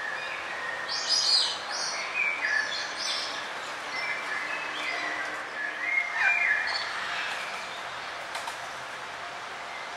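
Several wild birds chirping and calling in short high bursts, busiest in the first seven seconds and sparser near the end, over a steady background hiss.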